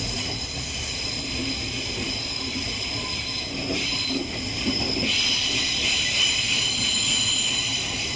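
Electric multiple-unit train moving through the station with its wheels squealing on the rails: several steady high-pitched tones over the rumble of the train, louder about five seconds in.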